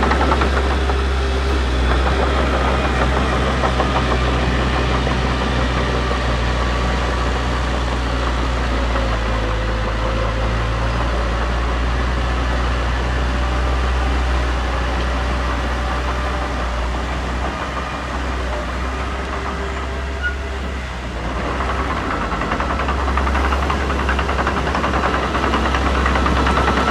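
Diesel engine of heavy earthmoving machinery running steadily, easing off briefly about twenty seconds in and then coming back up.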